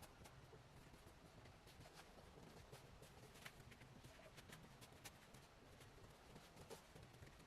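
Near silence: faint, scattered short clicks and taps at irregular times over a low background rumble.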